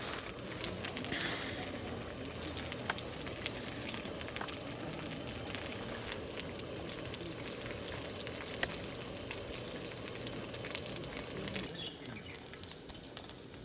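Food sizzling in a hot pan, with a steady hiss and many small crackles, falling quieter near the end.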